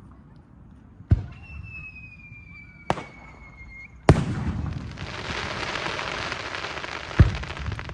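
Fireworks display: sharp bangs of shells bursting about a second in, near three seconds and near four seconds. Between the first two bangs a high whistle falls slowly in pitch. After the third burst comes a dense crackling hiss lasting about three seconds, ended by another loud bang.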